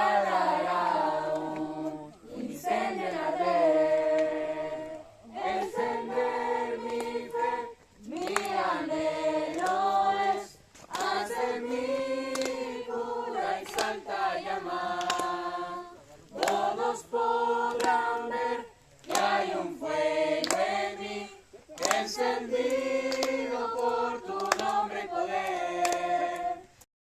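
A group of voices singing a song together without instruments, in phrases broken by short pauses.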